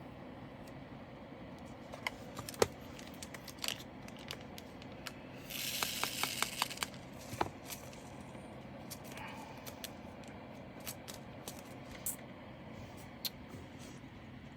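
Scattered light clicks and taps of small plastic diamond-painting drills, bags and containers being handled, with a rustling rattle lasting about a second and a half midway.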